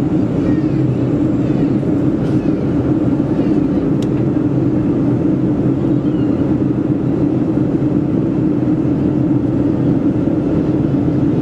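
Steady cabin noise inside a Boeing 737-400 airliner in descent: the even drone of its CFM56 turbofan engines and the rush of air past the fuselage, strongest in a low hum.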